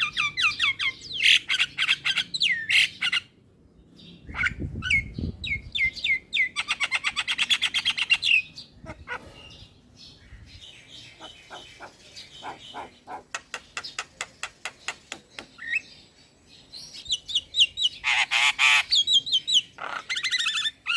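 Young male Javan myna (jalak kebo) singing: a varied stream of chirps with quick falling glides, fast clicking rattles and harsh squawks, broken by short pauses.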